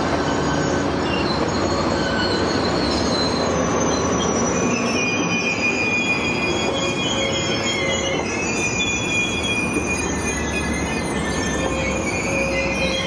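Commuter train rolling slowly past with its steel wheels squealing on the rails: several high squealing tones that come and go over a steady rumble, growing stronger about five seconds in.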